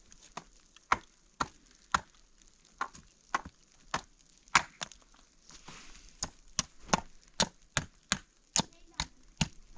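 Repeated chopping: a steady run of sharp strikes, about two a second, some louder than others.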